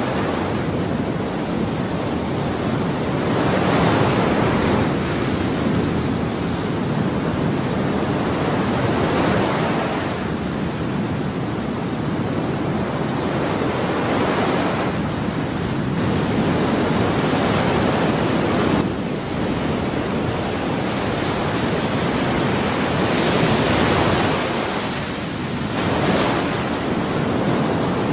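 Ocean waves breaking on a shore: a continuous rushing surf that swells and recedes every few seconds as each wave comes in.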